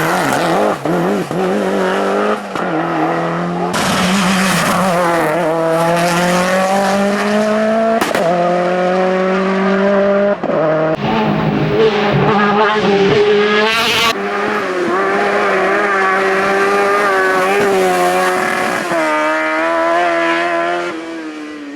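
Race car engine at full throttle, climbing in pitch through each gear and dropping sharply at every upshift, then fading as the car pulls away near the end.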